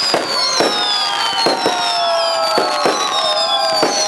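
Aerial fireworks bursting in quick succession, about eight sharp bangs, over high whistling tones that slide slowly downward in pitch.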